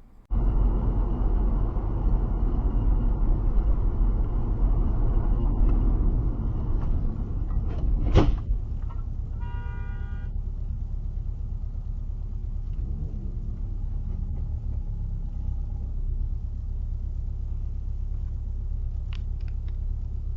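Car on the road with a heavy low rumble. A single sharp bang comes about eight seconds in, then a short car horn blast, and the rumble carries on more evenly.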